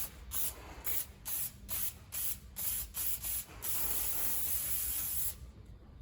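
Aerosol can of brake cleaner spraying onto a chainsaw bar: a quick run of short hissing bursts, about two or three a second, then one steady spray of nearly two seconds that cuts off near the end.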